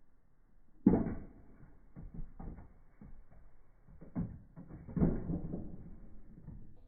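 Clunks and knocks of old lock hardware being handled and set down: one sharp knock about a second in, then a series of smaller knocks and rattles.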